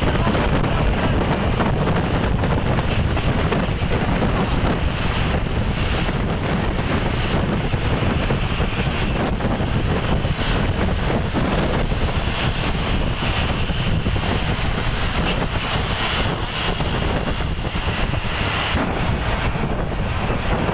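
Heavy wind rushing over the microphone with steady road and traffic noise underneath.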